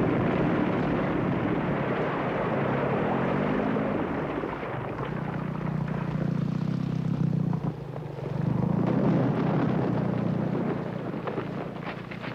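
Continuous rumbling roar of a huge mass of glacier ice collapsing into the sea. A low droning tone joins it about three seconds in and dips briefly about eight seconds in.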